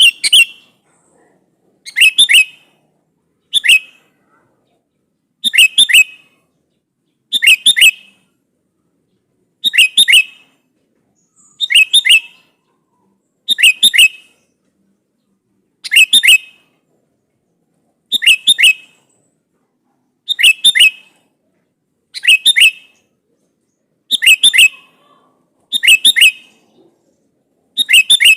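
Sooty-headed bulbul (kutilang) giving a short, loud call of two or three quick notes, repeated about every two seconds: the call it uses to challenge a rival.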